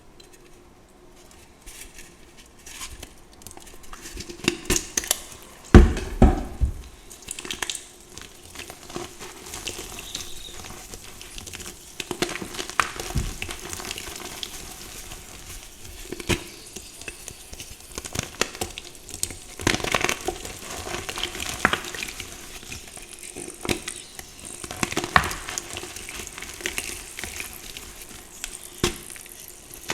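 Reformed gym chalk being crushed: irregular crunching and crumbling crackles, with one heavy thump about six seconds in.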